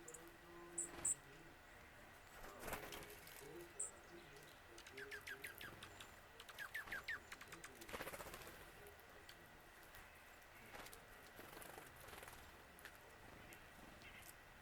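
Songbirds calling faintly: a few thin, very high notes in the first four seconds, then two quick rapid series of notes about five and seven seconds in.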